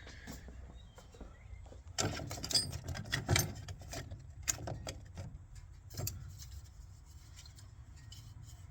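Light clicks and rattles of small parts and tools being handled, clustered between about two and six seconds in, over a low steady hum.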